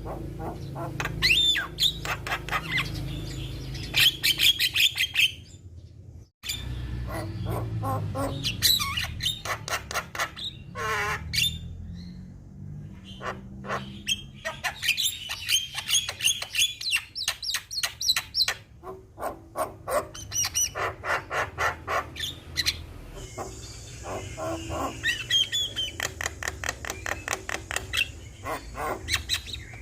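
Javan myna (jalak kebo) singing: long runs of rapid chattering, rattling and whistled notes, broken by a brief gap about six seconds in.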